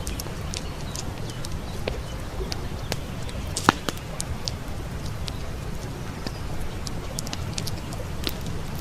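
Wood fire crackling with scattered sharp pops, one much louder pop a little over a third of the way in, over the steady low rush of a stream.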